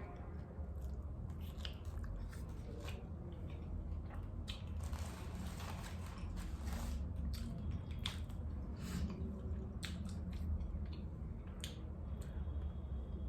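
Close-miked chewing of birria tacos: wet smacking and biting with now and then a crunch, irregular mouth clicks over a steady low hum.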